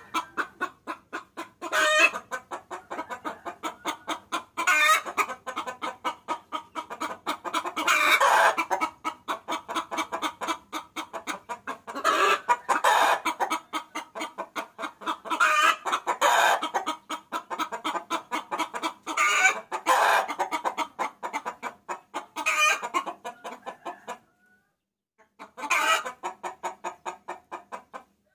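A hen cackling: a fast, steady run of short clucks, rising every few seconds into louder cackling bursts, with a brief pause near the end. It is the hen's call to a rooster, played as a lure call to draw in cocks.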